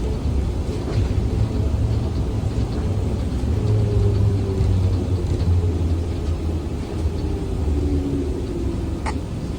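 ZiU-682 trolleybus in motion, a steady low rumble of running gear and road noise with a faint whine that falls in pitch during the second half. A single sharp click comes near the end.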